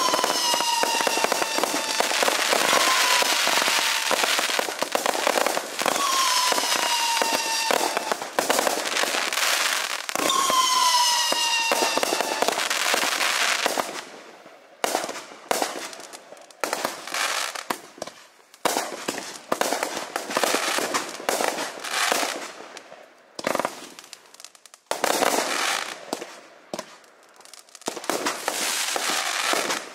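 Several 500-gram consumer firework cakes firing together: a dense, rapid string of shots and crackling bursts, with a few falling whistles. About halfway through it thins into scattered bursts and crackles with short gaps as the cakes run down.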